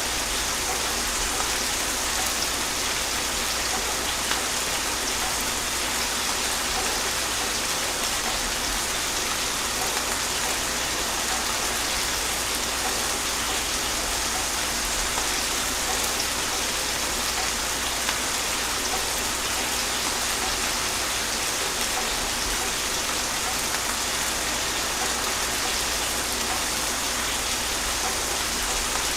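Steady, gentle rain falling on surfaces, an even hiss of many drops with no thunder.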